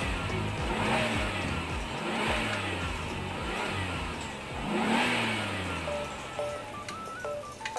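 A car engine revving up and down in several swells, over background music with a steady beat; a bright stepping melody comes in near the end.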